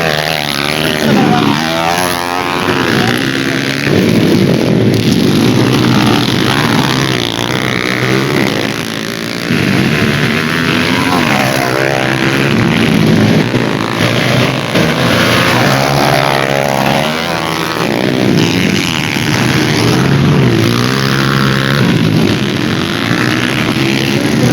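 Racing dirt bike engines revving up and down over and over, with pitch rising and falling as the bikes accelerate, shift and pass. More than one engine overlaps at times.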